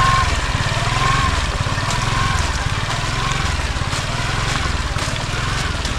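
Motor scooter engine running with a low pulsing note as it rolls down a steep road, with a faint whine that rises and falls about once a second.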